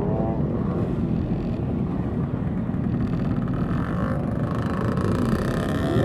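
Motorcycle engines running together in a parade of bikes, with engine revs rising and falling near the end.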